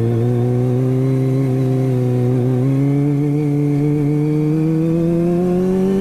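Kawasaki ZX-25R's inline four-cylinder engine through an Akrapovič exhaust, running under steady throttle: its note dips slightly, then rises gradually over the last few seconds as the bike gathers speed.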